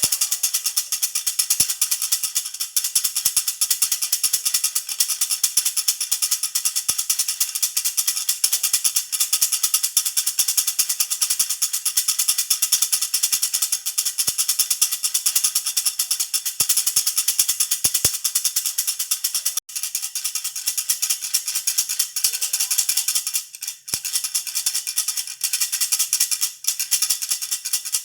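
Jhunjhuna baby rattle shaken quickly and continuously, a dense, bright jingling rattle with a few brief breaks about 20 and 24 seconds in.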